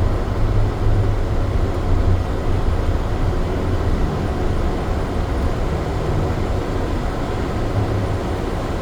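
SFO AirTrain, a rubber-tyred automated people mover, running along its guideway: a steady low rumble with an even running hiss.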